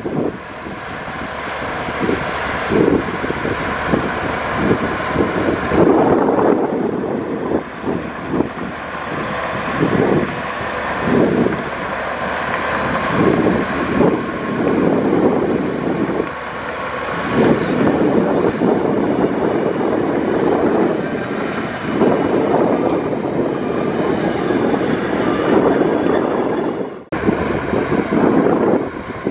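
Heavy diesel earthmoving machinery, a bulldozer or dump truck, running hard under load. The engine note swells and eases, with a brief drop near the end.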